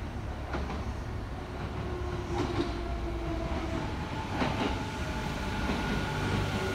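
Kintetsu Kyoto Line local electric train approaching the platform. Its rumble grows slowly louder, with clacks about every two seconds and a steady whine of several tones joining about two seconds in.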